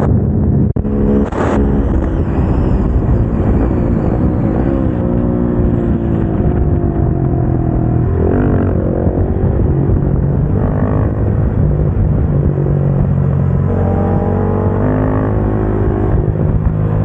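KTM 690 SMC-R's single-cylinder engine under hard riding on track, revving up and dropping back repeatedly through acceleration, gear changes and braking. There is a short break in the sound under a second in.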